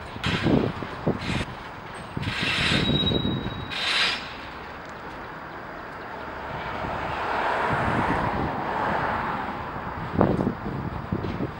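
Freight cars moving during yard switching: irregular metallic clanks and rattles, with two short hissing bursts early on and a louder clank near the end.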